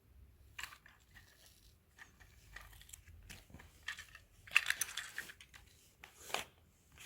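LEGO pieces being handled and pressed together: scattered light plastic clicks and rustles, with a louder flurry of clicking about four and a half seconds in and another short one just after six seconds.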